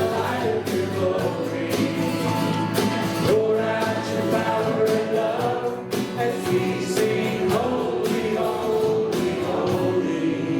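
A worship band playing a song with voices singing over it and drums keeping a steady beat.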